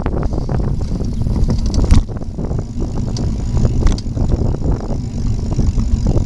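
Wind buffeting the microphone on a moving bicycle, over a steady rumble of tyres on the path and frequent small rattles and clicks from the bike. There is one sharper knock about two seconds in.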